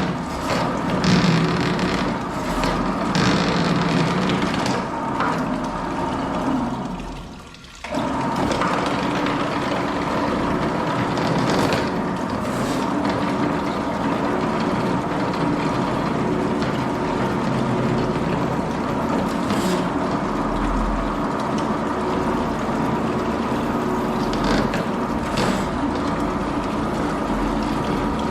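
Drain-cleaning machine running steadily with water noise. It fades down about seven seconds in, then cuts back in abruptly.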